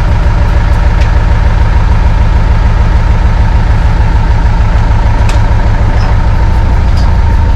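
Boat engine idling steadily, a constant low running sound with a faint steady whine above it.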